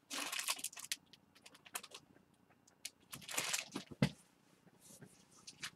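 Rummaging among small objects on a tabletop: two short bursts of rustling with scattered clicks and taps, from a search for a misplaced die.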